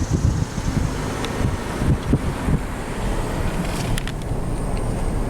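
Road noise of a car driving: a steady low rumble with uneven low thumps.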